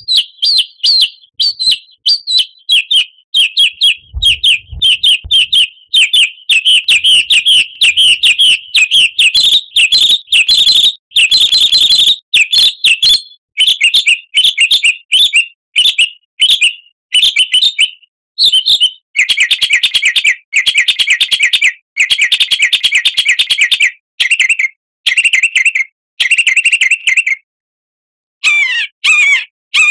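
A songbird sings loud, rapid chattering chirps and trills in long, nearly continuous runs. It breaks off for about a second near the end, then starts again.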